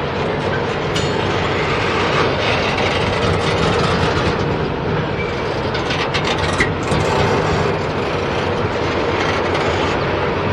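Double-stack intermodal train's well cars rolling past: a steady rumble of steel wheels on rail, with occasional clicks as wheels cross rail joints.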